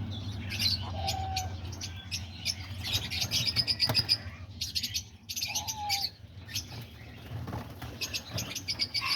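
Mixed flock of small cage birds (budgies, lovebirds, cockatiels and diamond doves) chirping with many quick high chirps, with wings flapping. Two short lower calls come about a second in and again near six seconds, over a steady low hum.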